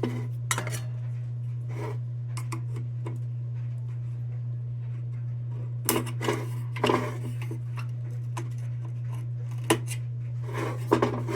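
Tin lantern parts clinking and knocking as they are handled and set down: scattered light metallic clicks, a few at a time, over a steady low hum.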